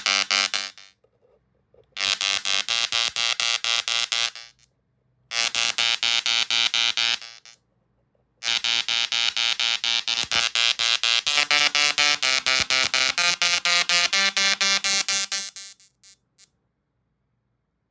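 Tesla coil arcs buzzing loudly in four bursts of rapid pulses, separated by short silences, with the buzz stepping down and back in pitch during the longest burst; two brief blips near the end.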